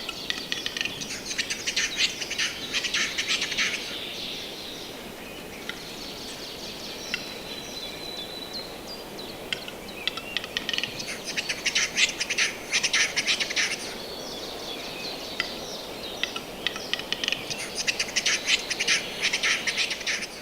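Western capercaillie calling: three bouts of rapid, dry clicking and scraping, each a few seconds long, with a thin steady whistle between the first two.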